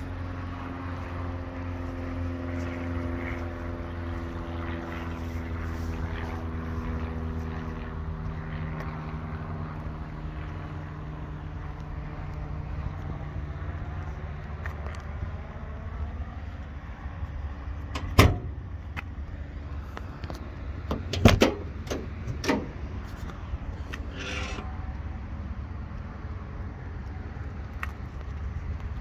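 Car engine running steadily at idle, its hum slowly dropping in pitch over the first half. A sharp knock comes about 18 seconds in, then a few more clunks a few seconds later.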